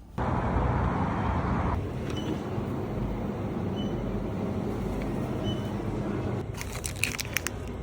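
BMW car driving, with steady engine and road noise. A short cluster of clicks and rattles comes near the end.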